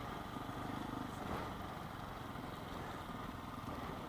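Motorcycle engine running at low speed over a dirt track, a steady low drone with wind noise over it.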